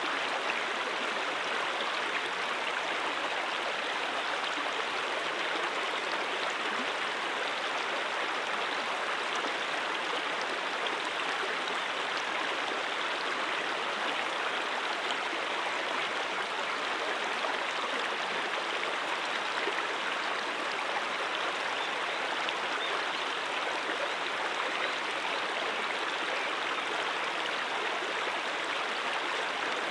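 A stream's water running and babbling over rocks: a steady, even rush with no pauses or changes.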